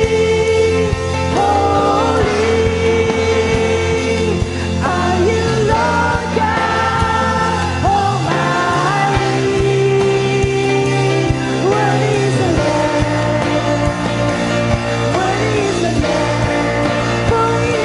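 Worship music: a singer's melody over a full band with a steady, sustained bass.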